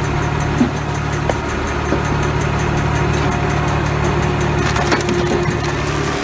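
Log band saw running steadily as it cuts through wood, with an even machine drone and a fast regular ticking over it.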